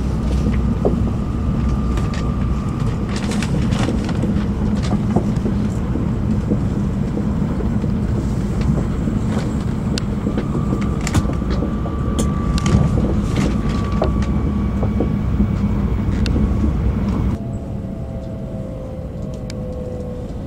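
Cabin noise of a Shinkansen bullet train running at speed: a steady low rumble with scattered light clicks. About three-quarters of the way through it suddenly gets quieter, and a motor whine slowly falls in pitch as the train slows.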